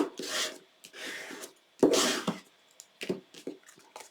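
Cardstock being handled on a craft table: several short rustling, sliding sweeps of paper, with a few light taps about three seconds in.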